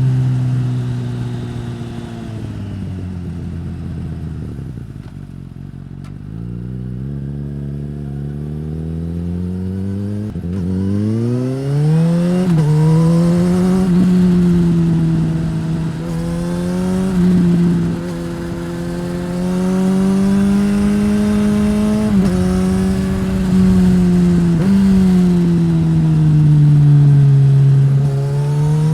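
A 2015 Suzuki GSX-S1000's inline-four engine through a Yoshimura R-11 slip-on exhaust. The revs fall to a low burble over the first few seconds, then climb hard. The engine pitch then rises and drops several times with sharp steps at the gear changes as the bike accelerates.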